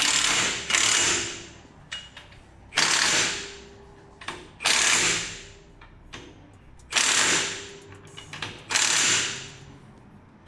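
Impact wrench running lug nuts onto a wheel in about six short bursts, roughly every two seconds.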